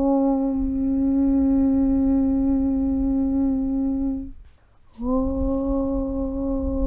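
A chanted 'Aum' drone: one steady humming note held for about four seconds over a low rumble. It breaks off for about half a second, as for a breath, then starts again with a slight upward scoop in pitch.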